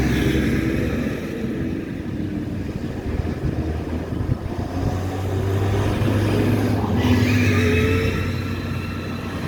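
Engines of vehicles in a passing procession, running with a steady low drone; about seven seconds in, a higher whine joins as another vehicle comes close.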